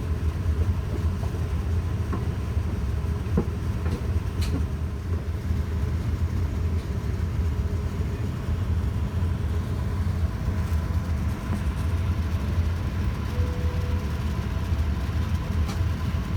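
Steady low rumble of a Boeing 787-9 heard from inside the cabin, with a few faint clicks and a brief faint tone about two-thirds of the way through.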